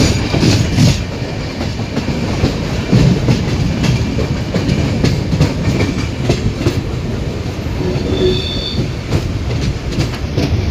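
Train hauled by an old diesel locomotive running at speed: a steady low rumble with the wheels clattering over rail joints. A brief high tone sounds about eight seconds in.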